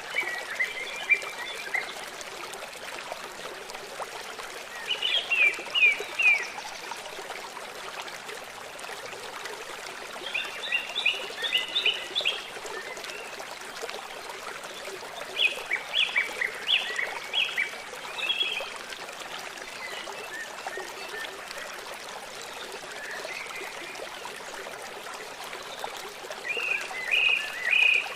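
Steady rush of a flowing stream, with a songbird singing short phrases of quick high notes, repeated every few seconds.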